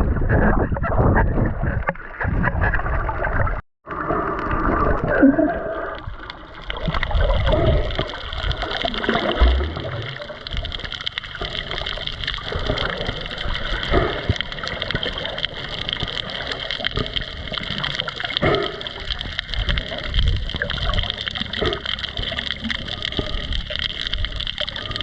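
Water sloshing and gurgling, with a low rumble in the first few seconds and a brief cut-out near four seconds. After that comes a steady hiss with irregular swells and clicks.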